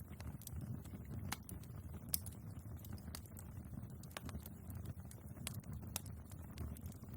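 Wood fire burning in a fireplace: a low steady rumble of the flames with scattered sharp crackles and pops from the logs, the loudest about two seconds in.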